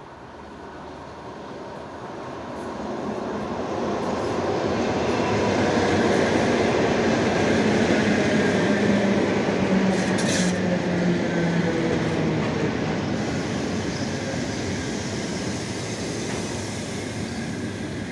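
ED9M electric multiple unit arriving and running past, growing steadily louder, then slowly fading as it slows. Wheel and rail noise runs throughout, along with a whine that falls in pitch in the middle as the train brakes, and there is a short click about ten seconds in.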